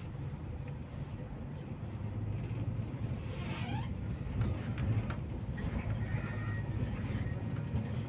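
MAZ-215 city bus heard from inside while under way: a steady low rumble of engine and road that grows slightly louder. A brief falling squeal comes about three and a half seconds in, and a thin high whine follows around six seconds.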